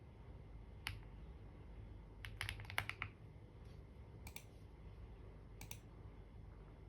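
Computer keyboard keystrokes in sparse, irregular typing: a single key click about a second in, a quick run of several keys in the middle, then two pairs of clicks.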